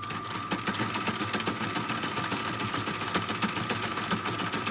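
Battery-powered Lego motor running a Lego model hit-and-miss engine: a steady electric whine with a rapid, even clatter of plastic gears and crank.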